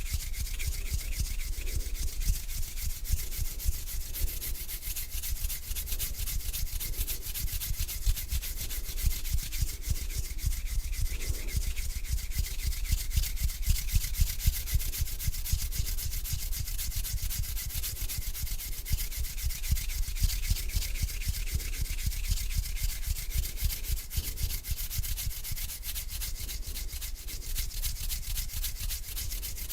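Palms of the hands rubbed together, a continuous dry swishing.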